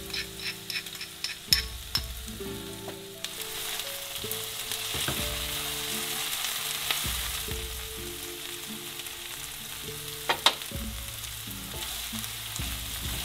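Chopped onion, garlic and ají amarillo sizzling in oil in a frying pan while a spatula stirs and scrapes the pan. The sizzle gets louder about three seconds in.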